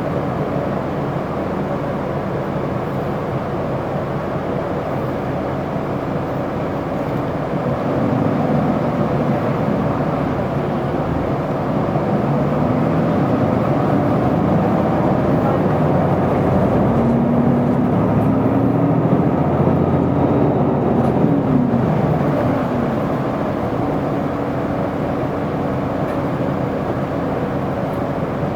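Isuzu Erga city bus engine and drivetrain running while the bus drives. About a third of the way in, the engine note rises in several steps as the bus accelerates. It eases back down near the three-quarter mark and returns to a steady drone.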